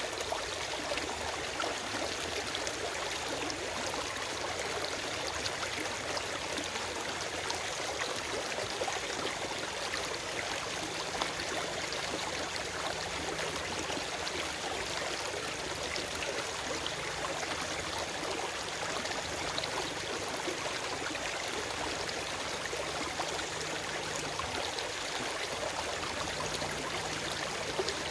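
A forest stream flowing and gurgling over rocks: a steady, even rush of water with fine splashing detail and no birdsong.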